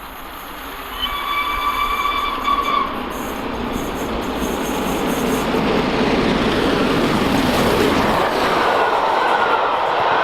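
Peppercorn A1 Pacific steam locomotive 60163 Tornado sounds its whistle once for about two seconds, then the rumble of the locomotive and its train grows steadily louder as it approaches.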